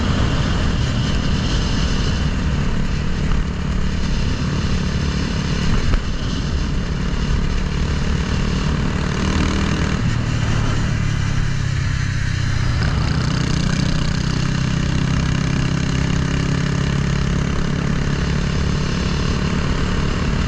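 Honda Grom's swapped-in CBR300R single-cylinder engine running steadily under way, its note shifting in pitch about ten seconds in, over steady wind and road noise.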